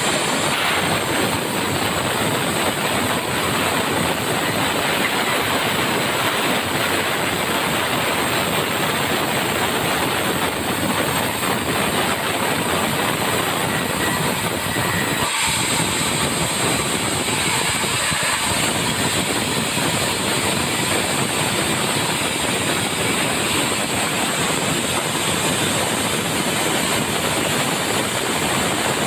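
Sawmill saw running and cutting through a log, a loud steady noise of blade and machinery.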